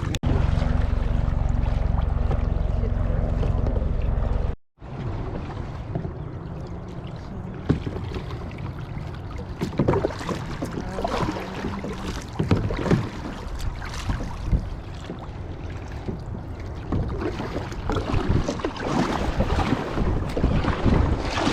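Wind rumbling over a GoPro microphone for the first four or so seconds, then, after a brief dropout, water sloshing with irregular splashes from kayak paddles working the water.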